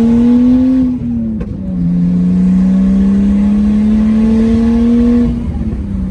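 Nissan Skyline R32's inline-six engine on a straight-piped exhaust, pulling under acceleration. Its pitch climbs, falls sharply at a gear change about a second in, climbs steadily again, then falls once more a little after five seconds.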